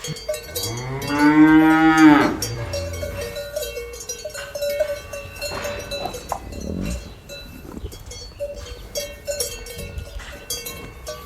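A cow lets out one long moo, starting about half a second in and lasting nearly two seconds. Cowbells clink and ring steadily throughout.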